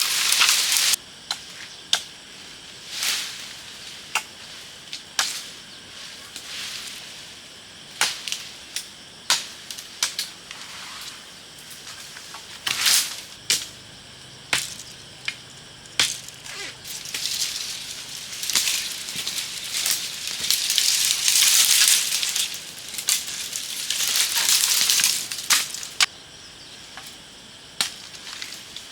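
Irregular sharp cracks and snaps, some loud, with several bursts of high hissing or rustling noise between them.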